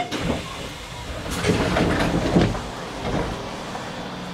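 Hanshin Railway local train running on the track, heard from inside the front car: a steady rumble with a run of wheel clatter over the rails about a second and a half in.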